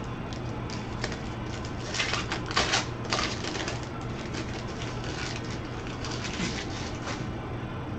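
Trading cards being handled on a table: a string of crisp rustles and clicks, loudest around two to three seconds in, over a steady low hum.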